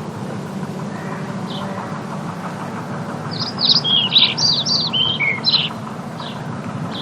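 Ambience recording of small birds chirping: a single chirp, then a quick flurry of short down-slurred chirps about halfway through, then another lone chirp, over a steady low background noise.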